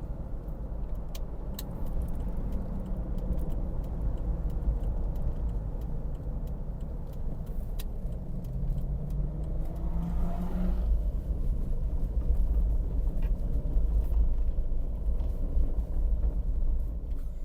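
Steady low rumble of a car driving, engine and road noise heard from inside the car; the engine note rises for a moment about ten seconds in.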